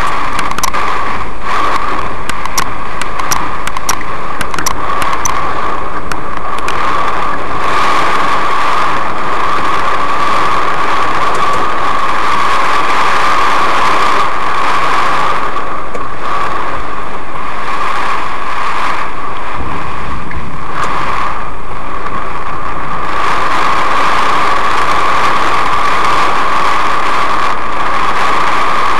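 Torrential rain drumming on a car's roof and windshield, heard from inside the car: a loud, steady rush, with sharp ticks of single drops striking in the first several seconds.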